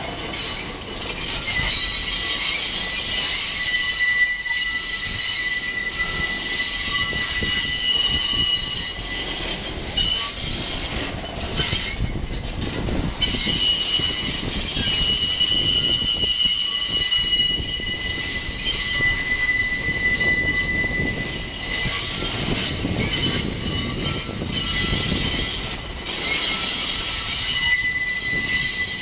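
New York City Subway R68-series cars rolling slowly through curved yard track, their steel wheels squealing in several high, steady tones over the low rumble of the train. The squeal eases briefly a few times and comes back.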